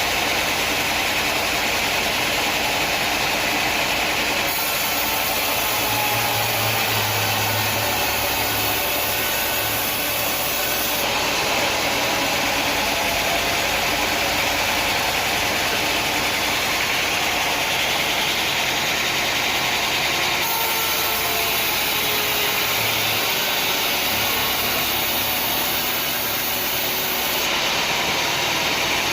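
An engine running steadily, a continuous dense mechanical noise with no distinct strikes or cuts.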